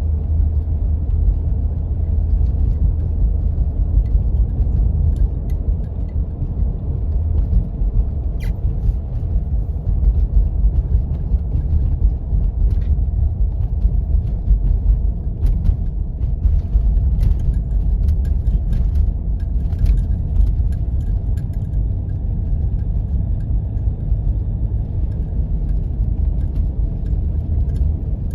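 Steady low rumble of a Jeep 4x4 driving on snowy roads, heard from inside the cabin, with scattered light ticks and rattles throughout.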